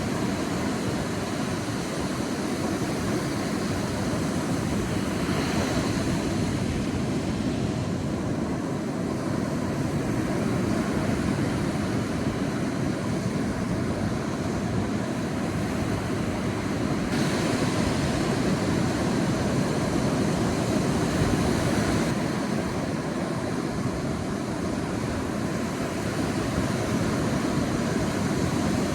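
Sea waves washing onto a beach: a continuous deep surf with a hiss that swells as waves break, brightest about a fifth of the way in and again a little past the middle.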